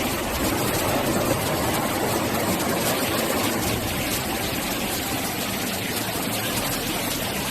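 Floodwater rushing, a steady, even sound of fast-moving water.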